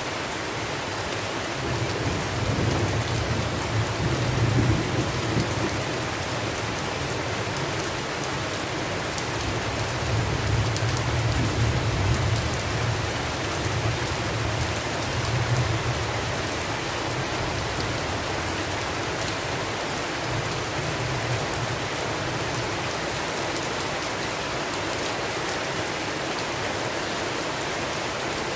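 Steady rainstorm hiss of heavy rain on a surface, with low rolling thunder rumbles swelling about two seconds in, again from about ten seconds for several seconds, and briefly around twenty seconds.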